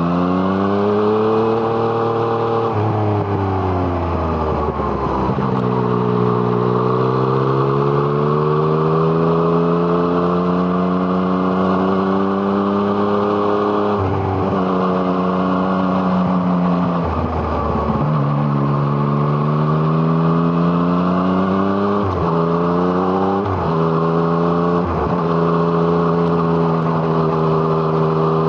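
Yamaha MT-09's 847 cc three-cylinder engine through an Arrow Thunder exhaust, recorded on the bike while riding: the pitch climbs and falls repeatedly as the rider accelerates and backs off, with gear changes breaking the note, three of them in quick succession near the end.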